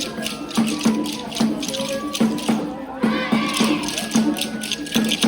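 Japanese festival music: a drum struck in a steady beat, about two to three strokes a second, with rattling percussion over it and voices calling out briefly about three seconds in.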